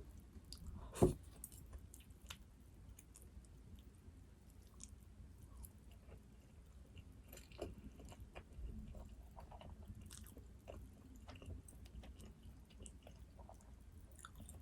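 Close-miked chewing and biting of food, with scattered small wet clicks and smacks throughout and one loud sharp crunch about a second in.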